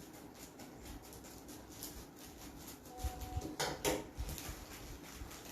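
A package being cut open with scissors: rustling and crinkling of the packaging with soft knocks as it is handled, and a couple of sharper snips a little before four seconds in.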